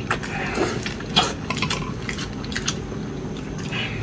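Eating sounds: a piece of lamb blood sausage being dipped in sauce and chewed, with a few sharp clicks of utensils against a dish.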